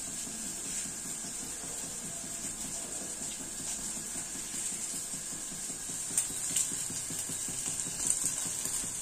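Onions frying in mustard oil in a lidded pan: a steady sizzle with a few louder pops about six and eight seconds in.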